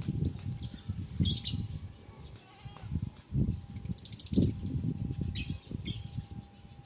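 Lovebirds giving short, shrill chirps in bursts, one a rapid buzzy chatter, over a steady low rumbling noise.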